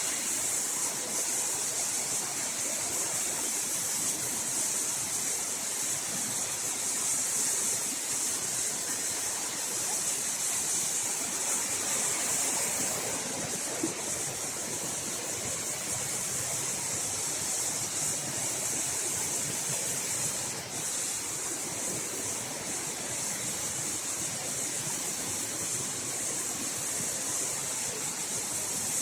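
Waterfall: falling water rushing steadily, an even hiss that holds without a break.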